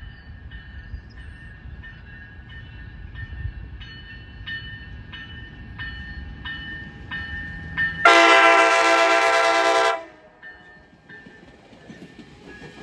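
Coaster commuter train approaching with a low rumble and a bell ringing about twice a second. About eight seconds in comes one loud train horn blast of about two seconds, a chord that cuts off sharply. The train then rolls past.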